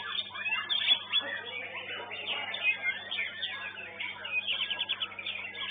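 Several caged songbirds singing at once, a dense mix of fast chirps and trills, over a steady low electrical hum.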